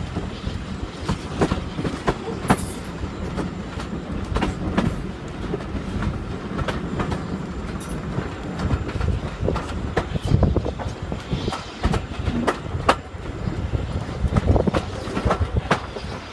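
Passenger carriage of a heritage steam train running along the line: a steady rumble, with the wheels clicking irregularly over rail joints.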